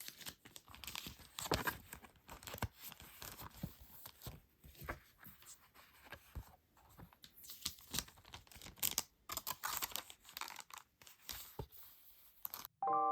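Packaging being handled and torn open by hand: irregular crinkling, tearing and crackling with sharp short clicks. A piano-like melody starts suddenly at the very end.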